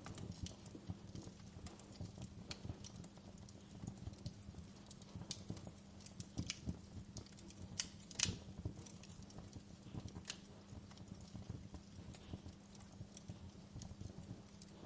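Fire crackling: irregular pops and snaps, the loudest about eight seconds in, over a low steady rumble.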